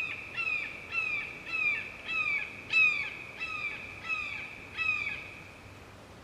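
An animal calling: about nine short, high, repeated calls, each sliding quickly downward, coming roughly every half second and stopping about five seconds in.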